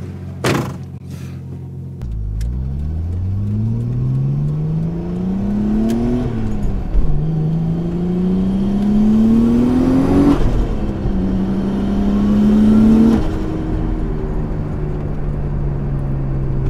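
Nissan Stagea's turbocharged engine, heard from inside the cabin, idling and then pulling away hard: the engine note climbs and drops back at two upshifts, with a brief rush of air at the second one, then settles to a steady cruise near the end. A sharp click comes just after the start.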